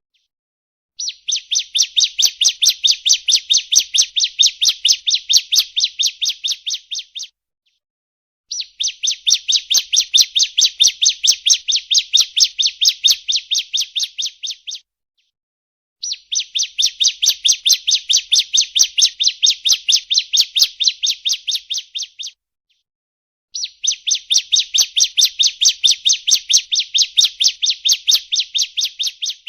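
Bar-winged prinia (ciblek) call played as a lure: rapid, evenly repeated high chirps, about four or five a second, in four long bouts of about six seconds each, separated by short pauses.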